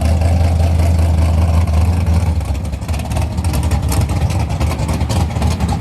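A car engine running slowly with a steady low rumble, its level dipping slightly about two and a half seconds in.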